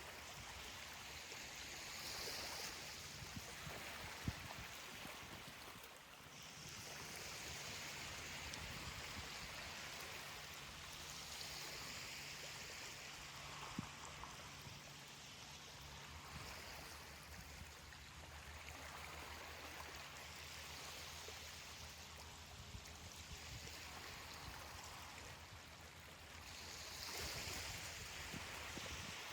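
Ocean waves washing onto a beach: a faint hiss of surf that swells and fades every few seconds, with a couple of small clicks.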